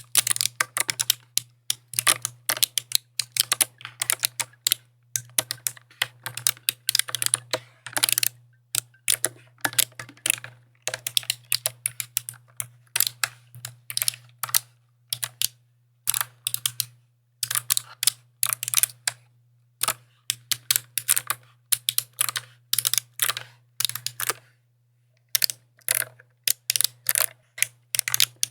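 Typing on a mechanical keyboard: quick runs of sharp key clicks, irregular in rhythm, with brief pauses between bursts.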